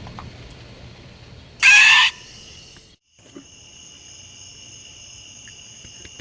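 A short, loud, shrill cry about one and a half seconds in. After a brief drop to silence, a steady high trill of crickets.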